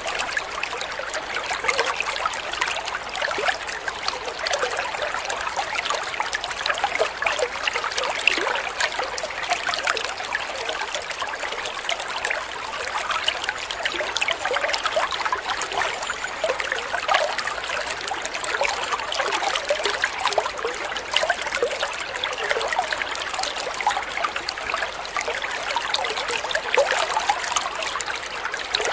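Shallow stream of running water trickling and babbling steadily, a dense patter of small splashes with no let-up.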